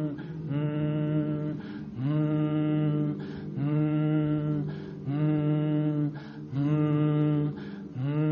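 A man's voice chanting a held meditation tone, repeated about six times at the same steady pitch. Each note lasts a bit over a second, with a quick breath between notes. It is a resonance exercise meant to send the vibration toward the head.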